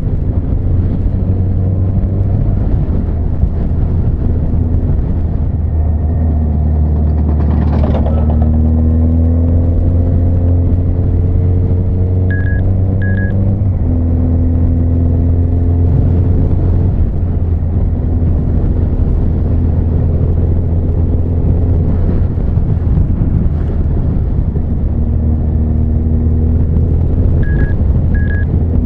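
Honda CB1300 Super Bol d'Or's inline-four engine running under way. Its pitch climbs steadily under acceleration about a third of the way in, then drops suddenly with a gear change. A pair of short high beeps sounds twice.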